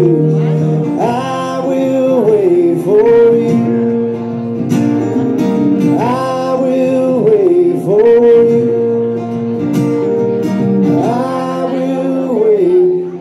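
Live soulful blues band playing between verses: a held lead line over the band, swooping up and sliding back down in pitch every few seconds.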